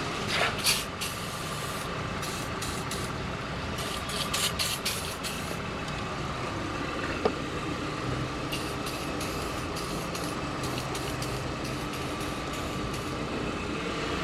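WD-40 aerosol can sprayed in several short bursts onto a seized 18 mm strut fastener, penetrating oil applied to free it.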